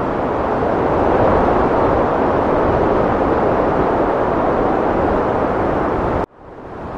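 Heavy wind blowing, a steady rushing noise. About six seconds in it cuts off suddenly and fades back in within a second.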